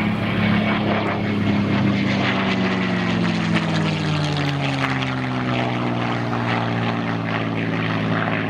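Piston-engine propeller airplane passing low and fast, its engine note sliding steadily down in pitch as it goes by.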